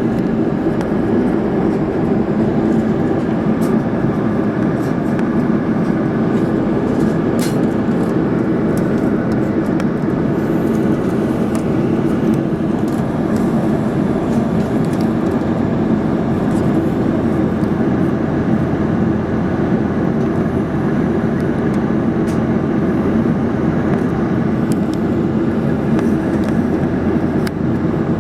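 Steady drone of an Airbus A330-300 passenger cabin in flight: engine and airflow noise, even and unbroken, with a few faint ticks.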